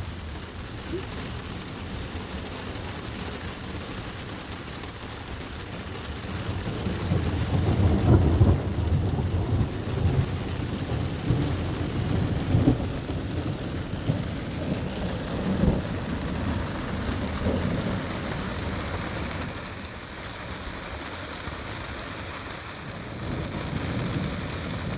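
Steady rain falling during a thunderstorm, with thunder rumbling in long low swells, the loudest about eight seconds in.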